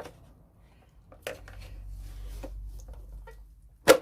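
A motorcycle battery box being forced out of the frame: scattered knocks and rattles, with a low rumbling scrape in the middle as it is worked loose. It ends in one loud, sharp crack as it comes free.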